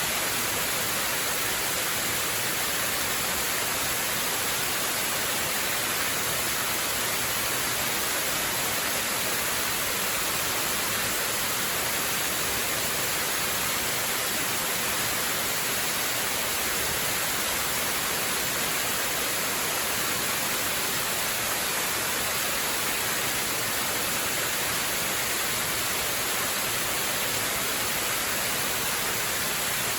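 Waterfall rushing: a steady, unbroken hiss, strongest in the high range, with no change or separate events.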